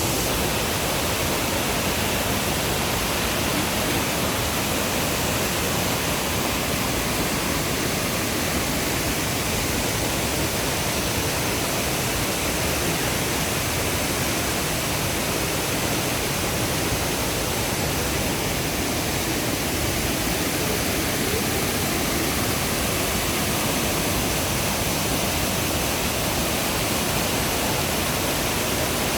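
Shipot waterfall: the steady, unbroken rush of falling water.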